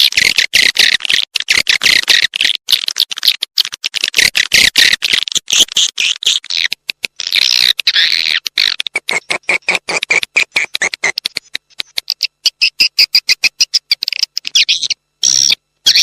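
Edible-nest swiftlets twittering in rapid, dense chirps, a recorded swiftlet call sound of the kind played to lure swiftlets into nesting houses. The chirps run in quick runs with short breaks and sit a little lower in pitch in the middle.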